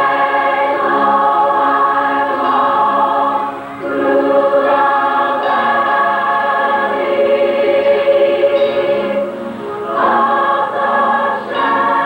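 High school choir singing a gospel anthem in long held chords, with brief breaks between phrases about four and ten seconds in.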